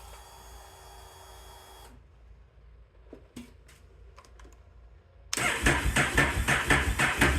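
Honda Rebel 1100 motorcycle being started: a faint steady whine for about two seconds, a few light clicks, then, about five seconds in, the electric starter cranking its 1084 cc parallel-twin engine in fast even pulses, not yet firing.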